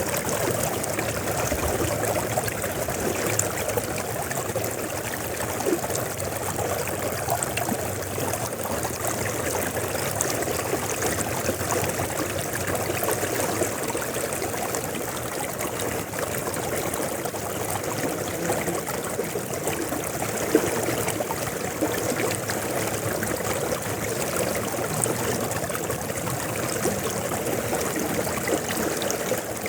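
River water flowing and burbling steadily, an even rushing noise with fine splashing detail.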